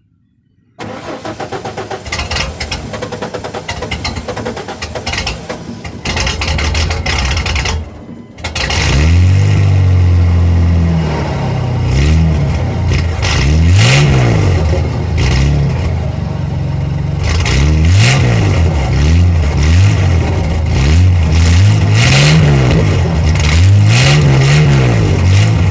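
Straight-piped Ford 300 straight-six being cranked for several seconds, catching about eight seconds in, then running loud and being revved up and down over and over. The exhaust has no muffler.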